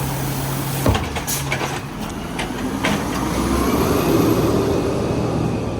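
Garbage truck running, with a steady engine hum, a sharp bang about a second in and a few clanks after it, then a swelling rush of noise over the last few seconds.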